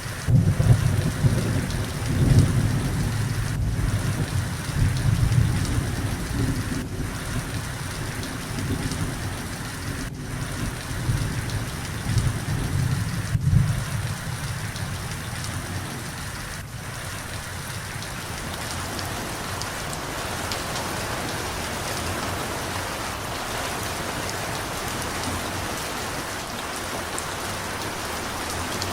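Steady rain with rolling thunder. The deep rumble swells and fades several times through the first half and dies away about halfway through, leaving the rain alone.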